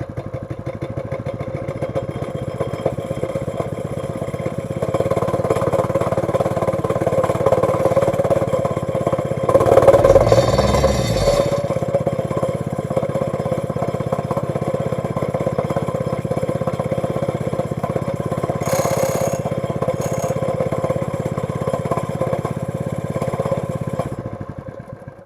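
Honda GX110 single-cylinder four-stroke engine on a wacker plate running smoothly after a start on old petrol. It gets louder about five seconds in and surges briefly around ten seconds. Near the end it is shut off and runs down to a stop.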